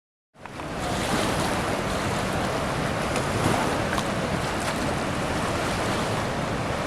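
Steady rushing of the Colorado River, with wind buffeting the microphone, fading up from silence a moment in.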